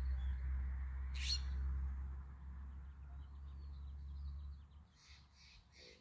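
Wild birds calling. There is one sharp, high call about a second in, then faint chatter, then a run of harsh repeated notes at about three a second near the end. A steady low rumble sits underneath and fades out shortly before the repeated notes.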